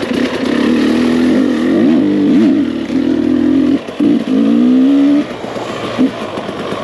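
GasGas two-stroke enduro dirt bike engine under hard riding, the revs rising and falling as the throttle is opened and chopped, with quick dips about two seconds in and short drops in the engine note about four and five seconds in.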